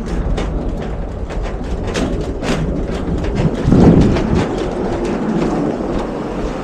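Garbage truck running with a steady low engine hum, under repeated clattering knocks and rattles, and a louder thump about four seconds in.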